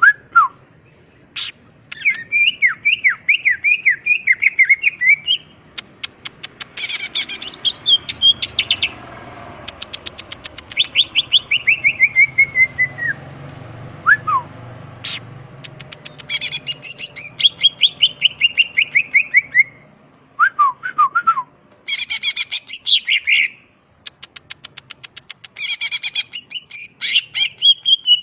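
Green leafbird (cucak ijo) singing a loud, varied song: bursts of fast repeated notes and rapid runs, strings of notes that slide downward, and short pauses between phrases.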